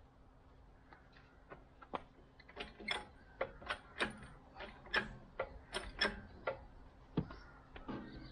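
A run of irregular mechanical clicks and light knocks, about two to three a second, loudest in the middle, over a faint steady hum.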